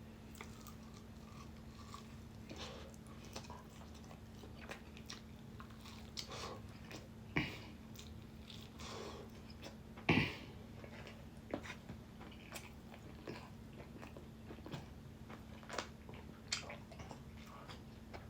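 A person chewing and biting into chicken wings: soft, scattered mouth clicks and smacks, with two louder bites about seven and ten seconds in.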